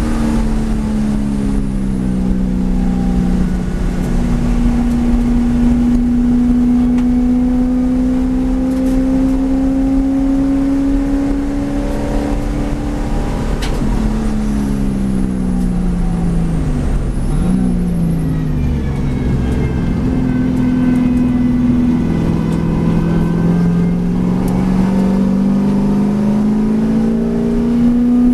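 V8 race car engine running hard on track. Its pitch falls in the first few seconds, then climbs slowly for about nine seconds under acceleration. It drops again with a quick blip of revs, a downshift under braking, and then rises once more toward the end.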